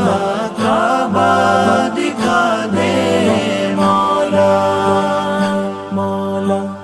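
Devotional vocal music: a wordless sung melody gliding through long held notes over a steady vocal drone, in the style of an unaccompanied naat.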